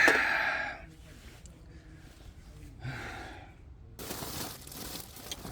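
A person lets out a loud breathy vocal sound at the start, like a sigh, and a softer one about three seconds in. About four seconds in, a steady hiss of background noise comes in abruptly.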